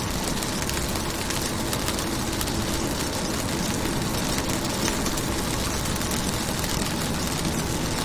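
Rain falling on a car's window, a steady dense patter of drops over a low rumble.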